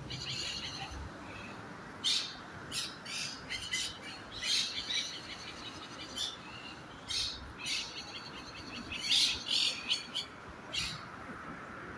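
Several birds chirping: a long run of short, high calls, coming irregularly with brief pauses between them.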